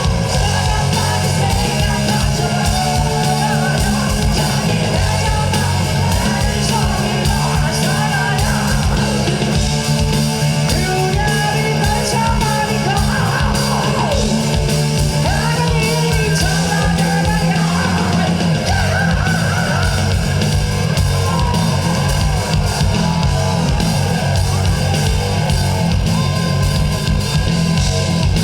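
Live heavy metal band playing loud: distorted electric guitars and a drum kit driving dense, fast hits under a wavering melodic line.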